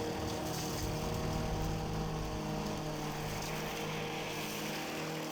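Small petrol engine of a garden machine running at a steady speed.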